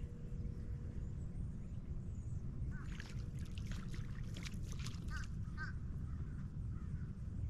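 Birds calling: a run of short, sharp calls in quick succession from about three seconds in, over a steady low rumble.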